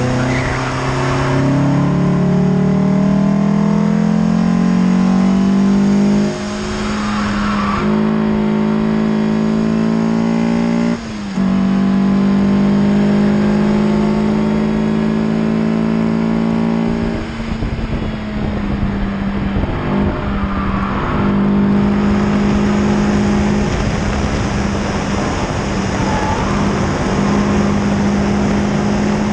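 Peugeot 306 GTi-6's 2.0-litre four-cylinder engine pulling hard on track, heard onboard. Its note climbs over the first six seconds, with brief breaks about six and eleven seconds in, then holds high. It wavers and breaks up for a few seconds past the middle and then holds steady again, over road and wind noise.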